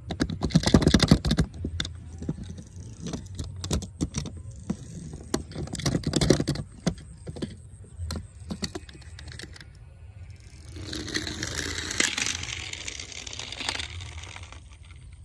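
Small hard plastic toys being handled: a run of rattling, clicking and clattering, then a rustling noise for a few seconds near the end.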